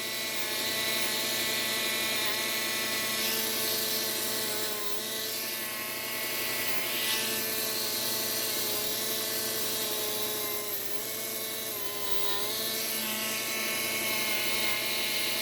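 Slow-speed belt sharpener running steadily, its motor and belt making a constant hum, while a knife blade is drawn across the moving abrasive belt; the high grinding hiss swells and fades several times as the blade passes.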